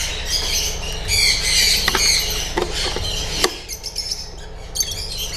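A flock of lovebirds squawking and chattering with rapid high-pitched calls, with a few sharp clicks near the middle; the calling thins out after about three and a half seconds.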